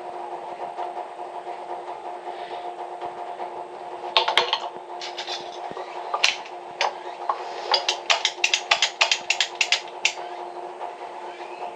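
A steady mechanical hum, with sharp knocks or taps starting about four seconds in and coming quickly, several a second, near the end.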